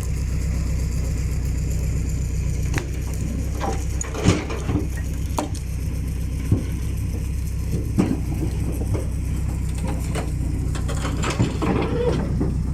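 A motor vehicle's engine runs with a steady low drone, broken by irregular sharp knocks and clatters, about eight of them.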